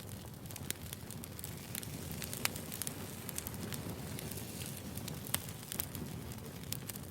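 Wood fire burning: a steady low rumble with scattered sharp crackles and pops from the burning firewood.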